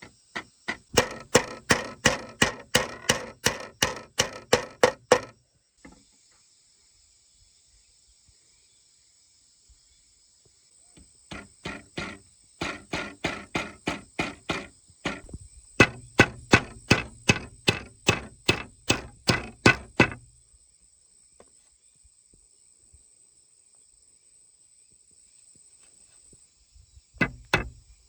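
Rapid, evenly spaced blows of a hand tool striking wood or bamboo, about three or four a second, in three long runs with pauses between and a fourth starting near the end. A steady high insect drone runs underneath.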